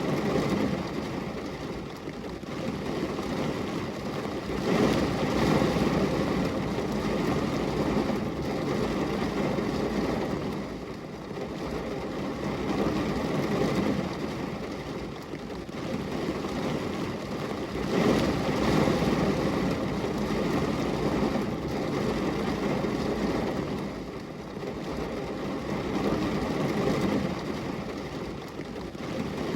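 Steady heavy rain on a glass window: a dense, rushing, mostly low noise that swells and eases every few seconds.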